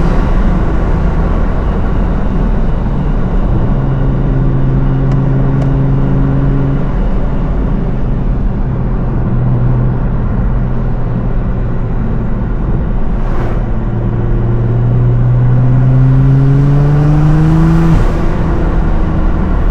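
Tuned twin-turbo 3.8-litre V6 of a 750 hp Nissan GT-R R35 cruising at steady revs, then pulling with rising revs and getting louder about 15 seconds in before dropping off sharply near the end, as in a lift-off or gear change.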